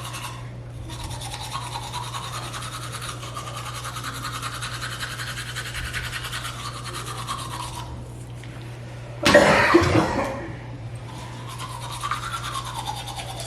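Rapid, steady scrubbing that pauses around the eighth second, with a louder, rougher burst about nine seconds in before the scrubbing resumes.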